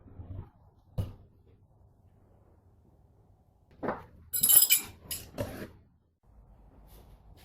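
A single knock, then a quick run of metallic clinks and knocks with a brief ringing, like small metal parts or tools being handled and set down.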